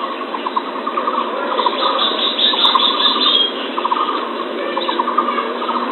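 Bird calls in a lure-call recording: repeated short bursts of rapid trilling over a steady hiss.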